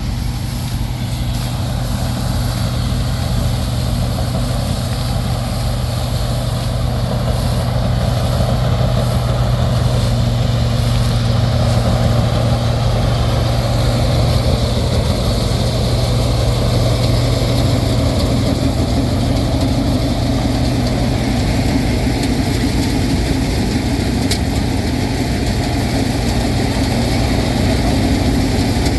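Combine harvester's engine running steadily, a constant low hum with machinery noise over it.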